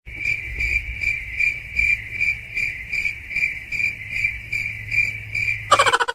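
An insect's steady high trill, swelling about two or three times a second, over a low hum. Just before the end it gives way to a different, rapid pulsing sound.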